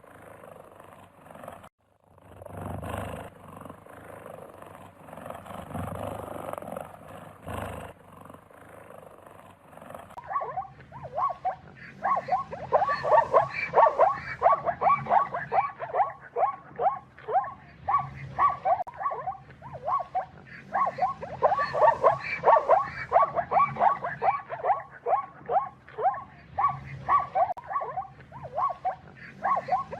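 Wild animal sounds: rough growling and roaring for the first several seconds, then a long, busy run of short, sharp, falling calls, several a second, that carries on to the end.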